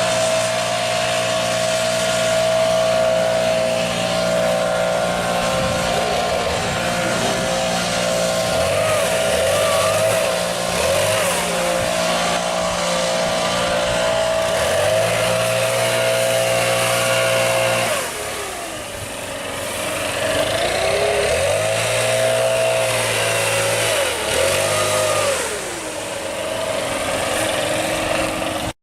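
Stihl backpack leaf blower's small two-stroke engine running, its pitch rising and falling as the throttle is worked, with a brief drop in level about two-thirds of the way through.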